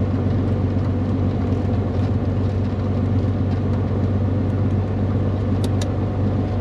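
Piston aircraft engine running with a steady, unchanging drone. Two quick clicks come near the end.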